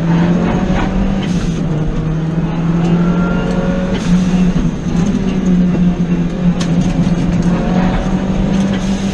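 Lancia Delta integrale's turbocharged four-cylinder engine running hard, heard from inside the cabin, its pitch holding fairly steady, with some faint rattles and clicks over it.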